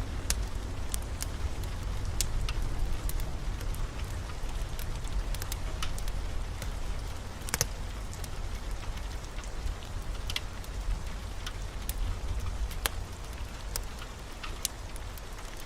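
Steady heavy rain over a deep low rumble that gradually eases off, with sharp crackles and pops of a wood fire scattered through it.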